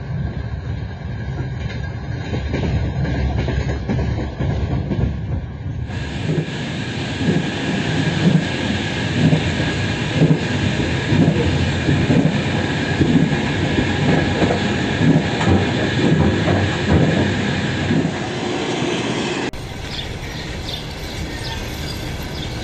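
A moving train: a steady rumble of wheels on the rails with rhythmic clacking over the rail joints. It is spliced from three clips, with sharp changes about six seconds in and near the end, and the middle clip is the loudest.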